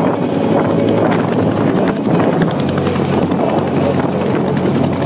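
AH-1 Cobra attack helicopters flying low, a steady loud drone of rotor and turbine engine with a constant low hum.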